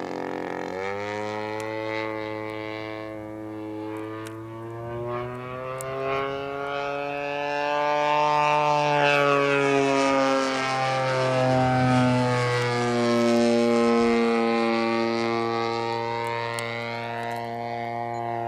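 Giant-scale RC P-40 model's DLE 55 single-cylinder two-stroke gas engine droning in flight. Its pitch slowly rises, then drops around ten to twelve seconds in as the plane passes, then holds steadier.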